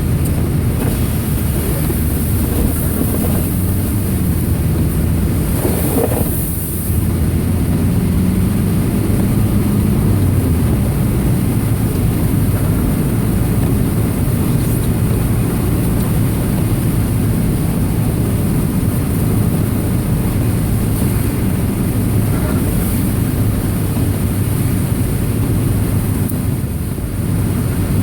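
A car driving, heard from on board: the steady low hum of a 2002 Subaru Impreza's EJ25 2.5-litre flat-four engine under road noise, with a short dip in level about six seconds in.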